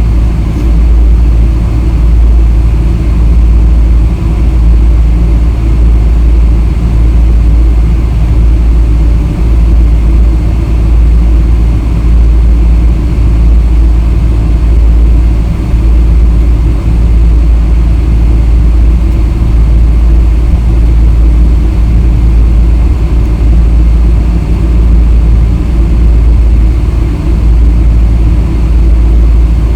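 Boeing 777-300 airliner, a loud, steady deep rumble of engines and airframe with no change in pitch.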